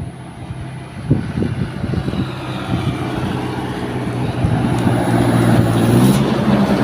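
Diesel truck engine labouring up a steep climb under load, its steady low drone growing louder as it comes closer, with a few knocks about a second in and a sharp click near the end.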